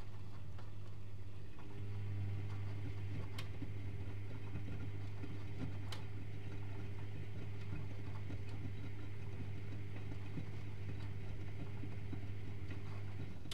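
Privileg Multispar 5110 washing machine running on a boil wash, its drum motor humming steadily as the drum turns, with a couple of sharp clicks. The hum strengthens about two seconds in and eases back near the end, as the motor works through a tumble.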